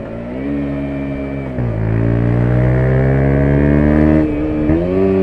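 The KTM 125 Duke's single-cylinder four-stroke engine pulling under acceleration, its note climbing in pitch. The note breaks briefly at gear changes about a second and a half in and again near the end.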